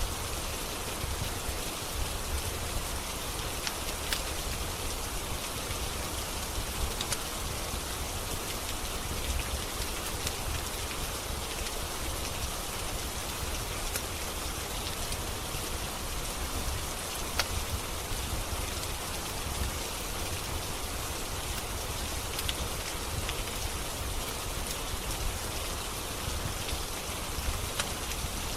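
Steady rain, mixed with the occasional sharp crackle and pop of a wood fire in a fireplace.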